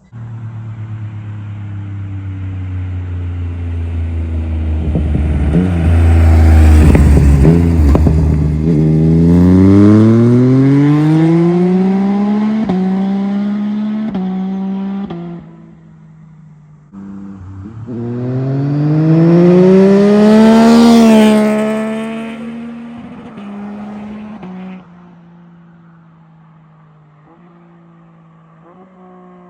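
Yamaha Tracer 9 GT+ three-cylinder engine, breathing through a full Akrapovic race exhaust with the baffle removed, accelerating hard past in two flybys. The engine note climbs and drops back with each upshift, swells to a loud peak as the bike passes, then falls away to a lower steady note.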